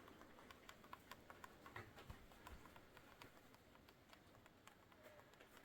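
Near silence, with faint scattered light ticks and taps.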